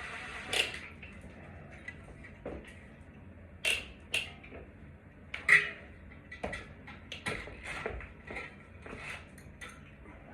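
Irregular clicks, clinks and knocks of small hardware and fan parts being handled, the loudest knock about five and a half seconds in.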